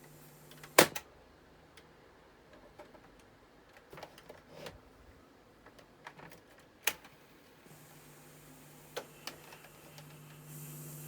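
Mechanical clicks from operating the controls of a Panasonic RX-FT590 boombox. A sharp click comes about a second in, lighter clicks follow around four to five seconds and again at nine, and another sharp click comes near seven seconds. A low hum stops at the first click and comes back later.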